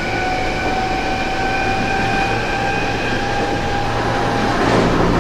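Tokyo Metro 07 series car with a Hitachi full-SiC VVVF inverter and 8-pole PMSM traction motors, heard from inside the car while accelerating. The inverter and motor whine is a set of steady tones rising slowly in pitch. About four and a half seconds in the whine drops away and a louder motor and running rumble takes over.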